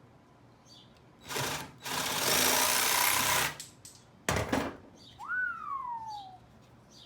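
Jigsaw cutting notches in 2x4 wood for bee-hive frame top bars, in starts and stops: a short burst about a second in, a longer cut of about a second and a half, and a brief burst after four seconds. About five seconds in, a short high tone rises and then slides down.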